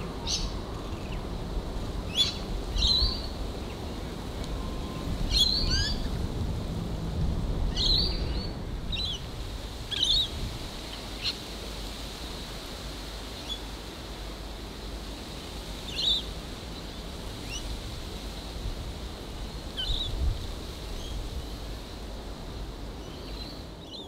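Birds calling outdoors: short, sharp chirps and squeaks at irregular intervals, several close together in the first ten seconds and sparser after, over a low steady background noise.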